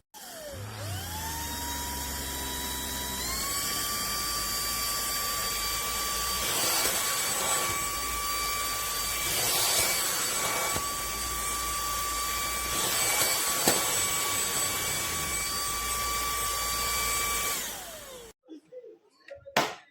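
Lubluelu cordless stick vacuum's brushless motor spinning up with a rising whine, stepping up to a higher speed about three seconds in. It runs steadily with a rushing of air, swelling briefly a few times, then winds down with a falling whine and stops near the end.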